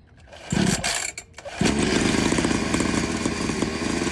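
Small dirt bike engine being started: a short burst about half a second in, a brief dip, then it catches about a second and a half in and runs steadily with a fast, even beat.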